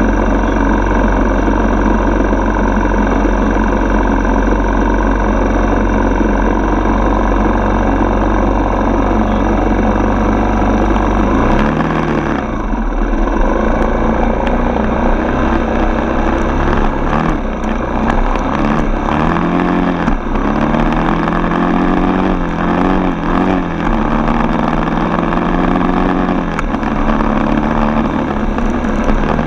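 Dirt bike's single-cylinder four-stroke engine under way: a steady note for about the first twelve seconds, then revs rising and falling again and again as the throttle is worked and gears change.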